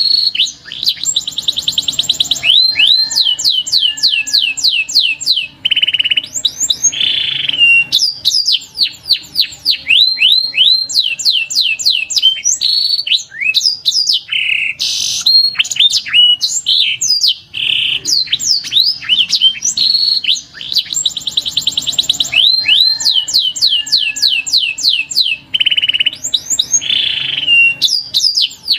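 Domestic canary song: fast rolling trills and runs of quick sweeping whistled notes, with short harsher buzzy phrases in between. The same sequence of phrases comes round again about twenty seconds on, as in a looped recording.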